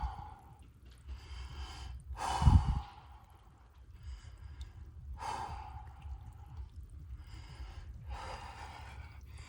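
A man breathing hard and heavily while sitting in icy water during a cold plunge: a series of forceful breaths about every second or so, the loudest about two and a half seconds in. This is the breathing of cold shock.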